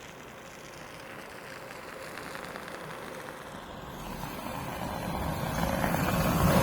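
A train approaching, its noise growing steadily louder, with a faint steady tone under the rush.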